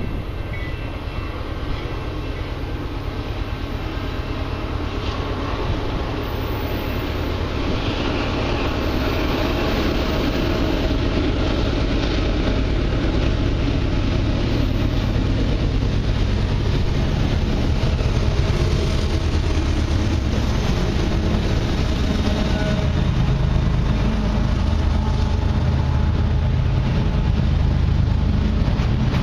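Diesel-hauled freight train approaching and passing: the locomotives' rumble grows steadily louder, then tank cars roll by close at hand with the rumble of wheels on rail.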